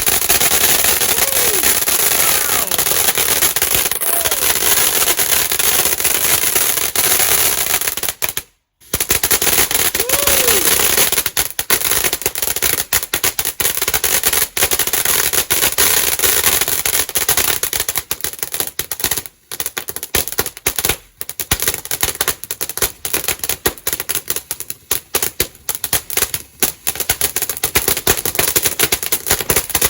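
Fireworks going off in a dense, rapid crackling barrage of sharp bangs, with a couple of short whistles. The sound cuts out completely for a moment just under nine seconds in.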